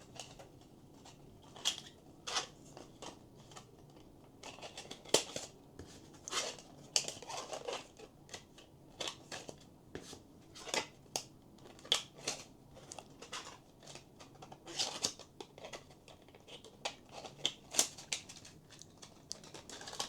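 3D-printed plastic writing boards being slid one by one onto a split plastic holding ring: irregular light clicks and scrapes of plastic on plastic.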